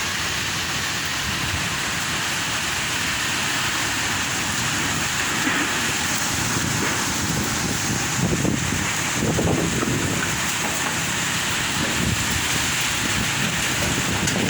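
Strong wind blowing steadily and buffeting the microphone, with heavier gusts about eight to ten seconds in.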